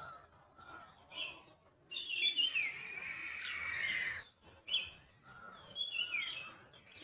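Birds calling: short high chirps, then a longer run of calls with falling notes from about two seconds in, and more scattered chirps near the end.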